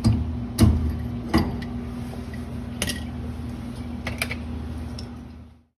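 Scattered sharp metal clicks and knocks from hand work on copper pipe and fittings, over a steady low hum. The sound cuts off abruptly near the end.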